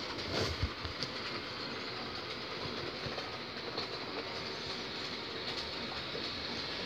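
Electric model train locomotive running around the layout track: a steady whir of motor and wheels, with a few light clicks near the start. This engine makes a little noise of its own even once it is up to speed.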